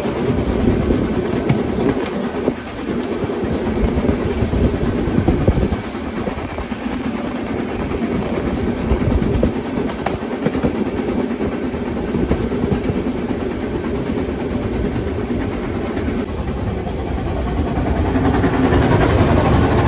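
Steam train on the move: steady rumble and clatter of the carriages running on the rails, growing a little louder near the end.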